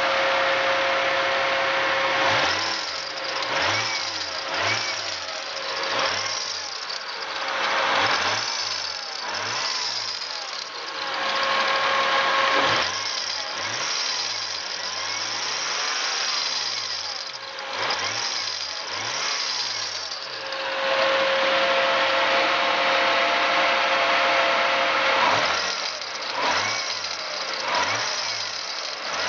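Toyota 2JZ-GTE VVT-i twin-turbo straight-six idling with a steady whine, then blipped repeatedly in quick revs that rise and fall, settling back to idle before a few more blips near the end. On the revs it makes a metallic clashing that the owner traced to a bad accessory drive belt rather than the water pump or crank pulley.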